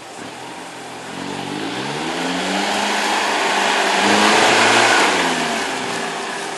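Isuzu MU 4x4's engine revving under load as it climbs a rutted dirt hill, its pitch rising and falling with the throttle. It grows louder as the vehicle nears and is loudest about four to five seconds in.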